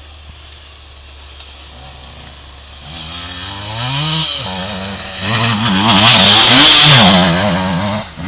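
Motocross bike engine approaching and passing close by, revving, its pitch rising and falling repeatedly as the throttle opens and closes. It grows from a few seconds in, is loudest about two-thirds of the way through, and begins to fade near the end.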